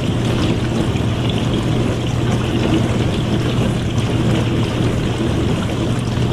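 Dishwasher running mid-cycle: water spraying and splashing inside the tub over a steady low motor hum.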